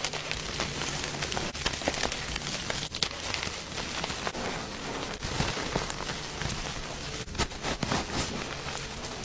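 Gym chalk being crushed: a dense, continuous crunching and crackling with irregular sharper cracks throughout.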